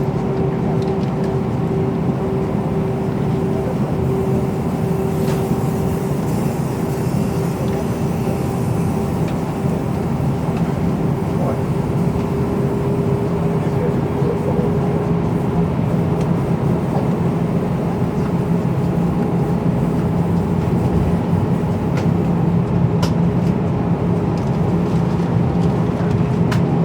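Airbus A319 cabin noise on the ground before takeoff: the jet engines running at low thrust under a steady rumble, with two held hums. The higher hum fades about halfway through, and the lower one grows stronger later on.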